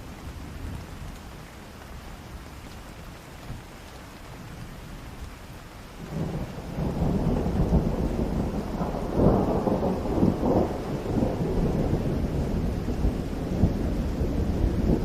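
Rain falling steadily in a forest, with a roll of thunder that breaks in about six seconds in and rumbles on, loudest a few seconds later.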